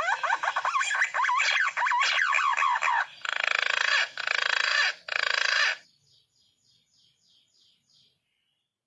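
Green pigeon (punai) calls: a run of looping, up-and-down whistled notes, then harsh rasping stretches that cut off about six seconds in. Faint ticks follow, then silence.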